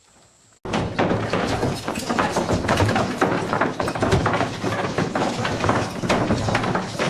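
A dense, continuous clatter of many knocks and bangs that starts abruptly about half a second in.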